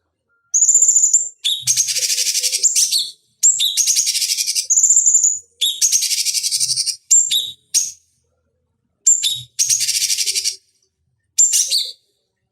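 Cucak cungkok singing: a run of short, fast chattering phrases, each with a high clear whistled note, broken by brief pauses.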